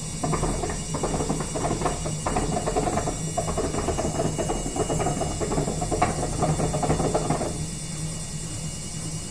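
Indesit IWSB51051 washing machine on spin, its drum giving a dense, irregular crackling rattle over a steady low hum. The rattle stops near the end, leaving only the hum. The crackle comes from broken drum bearings and a broken drum spider.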